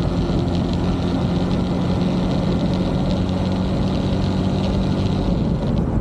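Motorbike engine running at a steady speed while riding, a steady hum that weakens a little about five seconds in.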